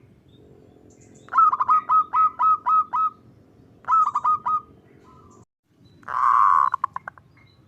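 Zebra dove (perkutut) calling: a run of about seven quick, clipped cooing notes, then a shorter run of about four. About six seconds in comes a longer, rough rolling note that breaks into a few quick short notes.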